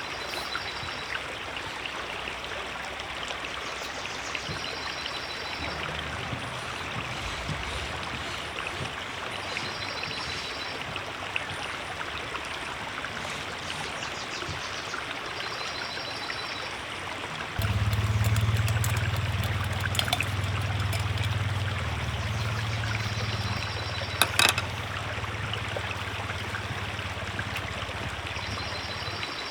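River water flowing steadily. A louder low rumble comes in about two-thirds of the way through and lasts almost to the end. A short high-pitched sound recurs about every five seconds, and there are a couple of sharp clicks.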